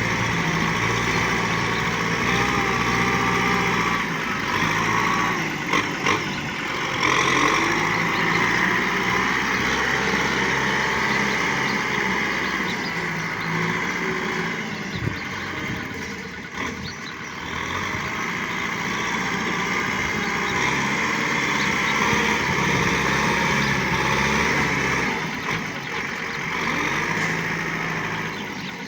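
Tractor engine running steadily, with a brief drop in level about halfway through and a few sharp knocks.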